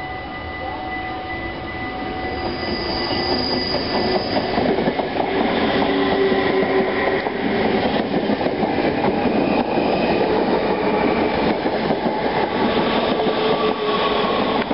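Bombardier VIRM double-deck electric intercity train approaching and passing close by at reduced speed, getting louder over the first few seconds, with its wheels clicking over the rail joints. A brief high squeal comes about three seconds in.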